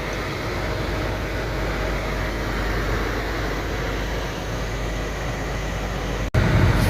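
Car heater blower running at full with the engine idling: a steady rush of air, as the heater works to defrost an iced-over windscreen. About six seconds in the sound cuts out for an instant and comes back louder.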